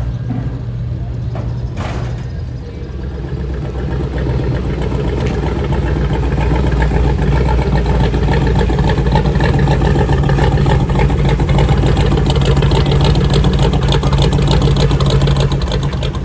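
A car engine running close by with a steady low rumble, growing louder over the first few seconds, holding, then easing near the end.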